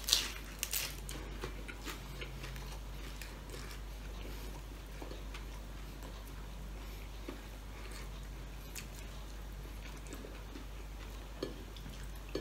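Crisp bites and chewing of a fried bean-sprout spring roll close to the microphone, loudest in the first second, then quieter chewing and small clicks of fingers working food on a plate, over a steady low hum.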